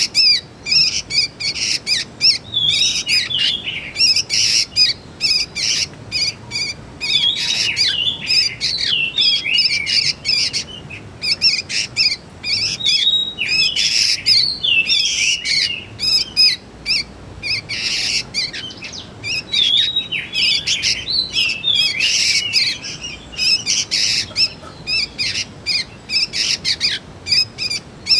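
Young sooty-headed bulbuls calling: a continuous run of short, high chirps and squeaky notes, one after another with only brief gaps.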